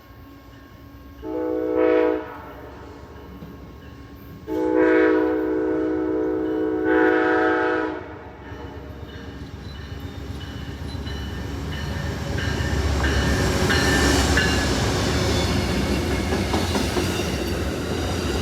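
Amtrak diesel locomotive's multi-chime horn sounding three blasts, a short one then two longer ones run close together. The train then passes close by, its engine and wheels growing into a loud rumble and clatter on the rails.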